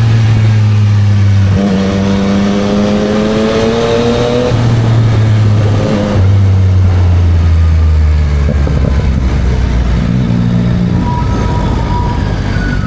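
Yamaha MT-09 SP's three-cylinder engine through a Spark full exhaust under way, rising in pitch as it accelerates, with a few sudden steps in pitch at gear changes, then running lower. Wind and road noise run over it.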